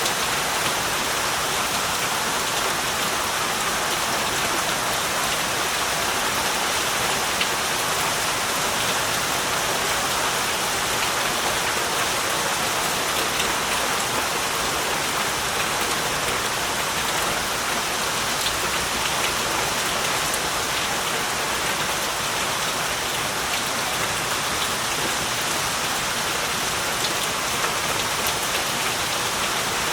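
Heavy rain falling steadily, a dense even hiss with scattered drops pattering on surfaces.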